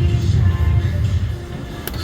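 Slot machine music and game sounds during a bonus round, over a heavy low rumble that eases about a second and a half in. A sharp click comes near the end.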